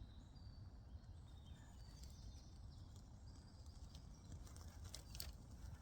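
Near silence: faint outdoor background with a low rumble, a few faint high chirps, and a couple of light clicks about five seconds in.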